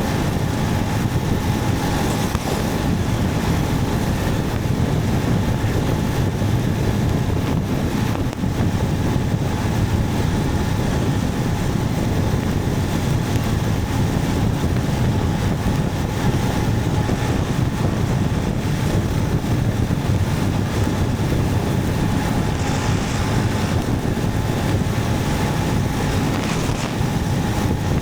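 Motorcycle running at a steady cruise, with wind rushing over the microphone.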